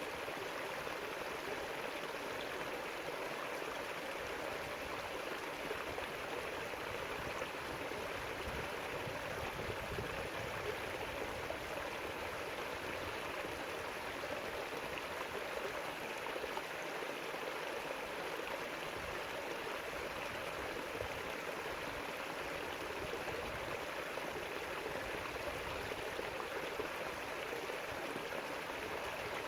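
River water flowing over rocks: a steady, even rushing and burbling.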